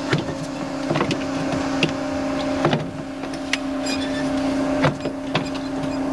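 A boat's motor running steadily with a constant hum, with scattered knocks and clicks over it.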